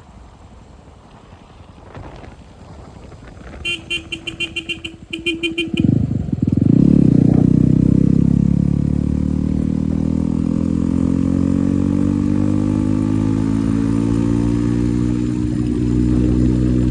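Yezdi Roadster motorcycle started through its Akrapovic exhaust: a pulsing cranking sound in two short spells, then the engine catches about six seconds in. Its revs swell briefly and settle into a steady idle.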